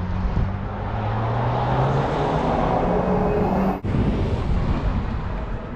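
Jaecoo 5 electric SUV on the move, its tyre and wind noise building with a low hum that rises slightly in pitch, as when accelerating; the sound breaks off abruptly about four seconds in and carries on at a steadier, easing level.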